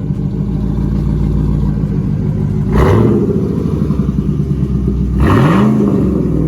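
A 1999 Camaro SS's 5.7-litre LS1 V8 idling through its custom welded exhaust, revved twice: once about three seconds in and again about five seconds in, falling back to idle after each.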